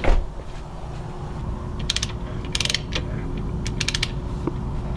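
Kick starter of a 125cc pit bike engine being worked: a knock at the start, then three short runs of rapid ratchet clicking about two to four seconds in, the starter not grabbing the engine. The owner suspects the clutch.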